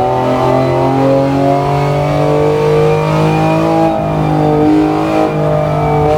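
BMW S54B32 3.2-litre naturally aspirated inline-six running at steady mid revs. Its pitch edges up slightly about two seconds in, and it dips briefly twice near the end.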